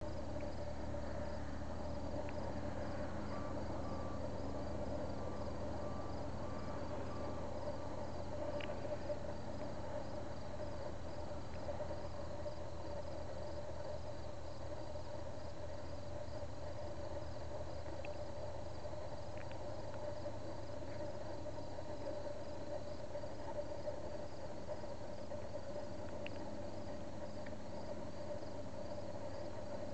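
Insects chirping in a steady, evenly pulsing rhythm, over a steady low drone.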